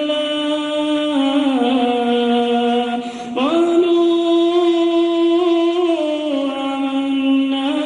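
A man's unaccompanied voice reciting the Quran in melodic tajweed, holding long drawn-out notes. The pitch steps down over the first two seconds, breaks off briefly about three seconds in, then rises to a higher held note that steps down again near the end.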